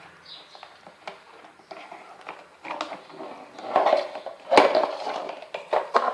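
Plastic knocks, clicks and rattles as the condenser filter of a heat pump clothes dryer is pulled out and handled, with one sharp, loud knock about four and a half seconds in.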